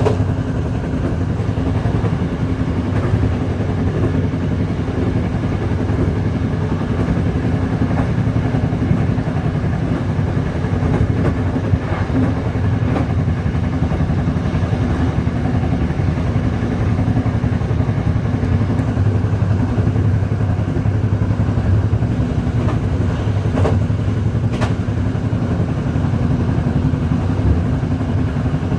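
Diesel locomotive engine running steadily under power, a constant low drone, with a few sharp clanks near the middle and toward the end.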